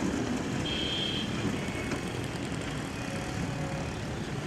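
Steady outdoor background noise like distant road traffic, with a brief thin high tone about a second in.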